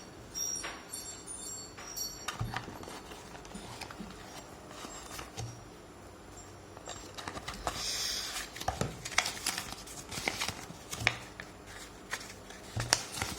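Hands handling a putty package: scattered light clicks and taps, with a brief rustle about eight seconds in.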